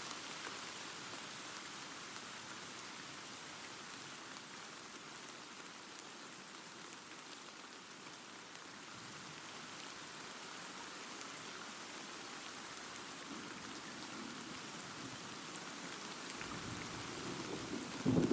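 Steady rain falling in an even hiss. A low rumble of thunder swells in over the last few seconds.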